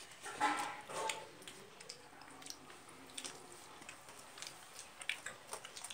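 Close-up eating sounds of rice eaten by hand: chewing, with scattered small clicks as fingers work the rice on a steel plate. A brief louder mouth sound comes about half a second in.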